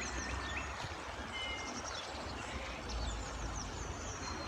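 Steady outdoor background noise with a low rumble, and a small songbird's quick, high chirps repeating through it.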